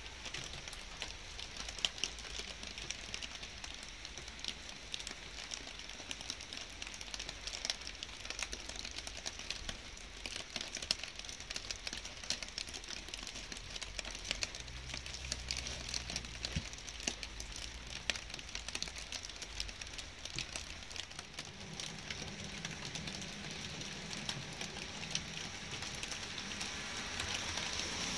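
Light rain falling, with many separate drops ticking close by.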